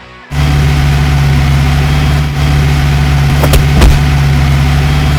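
A vehicle engine sound effect starts about a third of a second in and runs loud and steady at an even pitch, with a couple of brief knocks in the middle.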